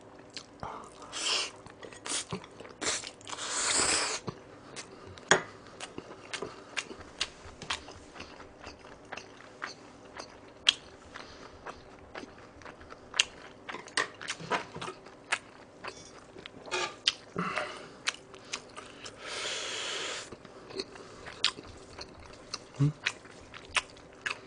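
Close-miked chewing of a mouthful of cold spicy bibim noodles and boiled pork, with many wet mouth clicks and lip smacks. There are two longer hissing sounds, about 3 s in and about 20 s in.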